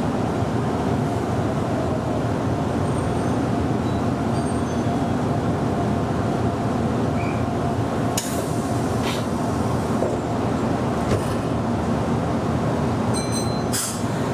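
Meitetsu local commuter train running along the track: a steady rolling rumble, with a few sharp clicks in the second half.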